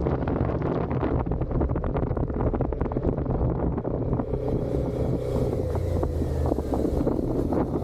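Suzuki SV650's V-twin engine running through its stock exhaust, heard from the rider's position. Wind noise on the microphone comes in about four seconds in.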